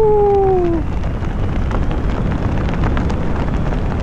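Wind buffeting the microphone as a steady low rumble during a skydive descent. A single tone falls slowly in pitch through the first second.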